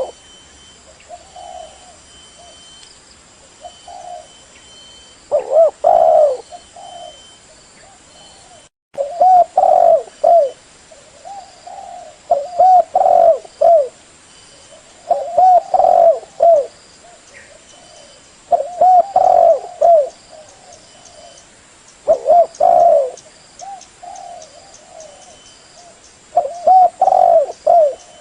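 Spotted dove (tekukur) cooing: a phrase of several low coos repeated about every three seconds.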